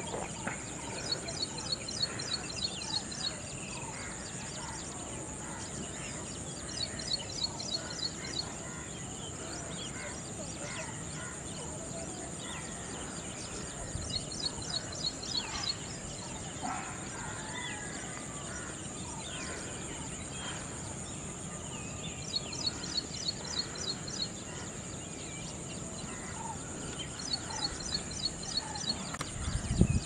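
Outdoor birdsong ambience: short, rapid high-pitched trills recur five times, every five to seven seconds, with scattered faint chirps in between, over a steady high-pitched drone.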